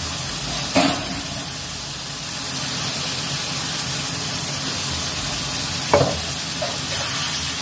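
Steady sizzling of tempe frying in chilli seasoning and oil in a wok, with two sharp clanks against the pan, about a second in and again near six seconds.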